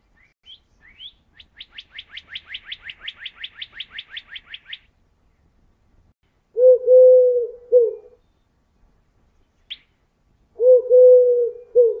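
Male northern cardinal singing: two rising slurred whistles, then a fast series of about twenty short repeated notes, about six a second, ending near five seconds in. Then rock pigeon cooing, louder and much lower: two phrases of throaty coos, one starting about six and a half seconds in and one near eleven seconds, with a single short high chirp between them.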